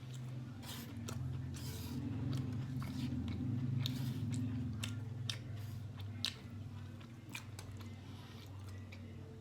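Close-miked chewing of food, with many short wet mouth clicks over a low steady hum.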